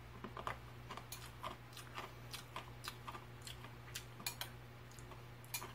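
A person chewing milk-soaked hardtack cereal: faint, irregular crunches and clicks, a few a second.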